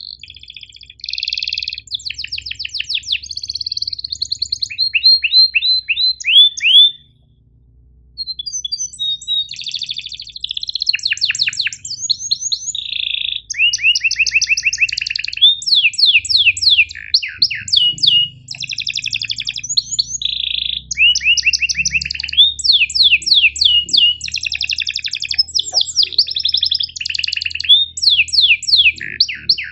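Domestic canary singing a long song of fast trills and rolls, built from runs of rapid, repeated downward-sweeping chirps, with a short break about seven seconds in.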